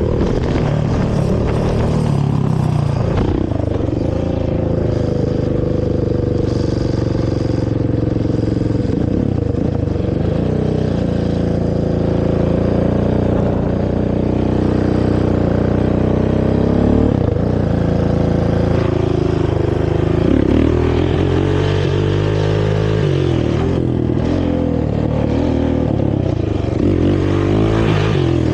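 Honda TRX450R sport quad's single-cylinder four-stroke engine with its stock exhaust, running under way as it is ridden. It revs up and drops back several times.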